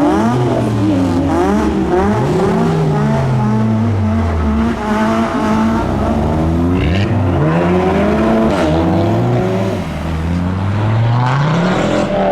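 Several modified cars' engines revving and accelerating as they pull away, their pitch repeatedly rising and falling and overlapping.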